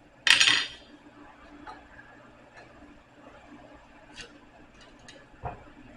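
Irregular clinks and knocks of metal pieces or tools being handled, with one louder clatter just after the start and a few faint clicks after it.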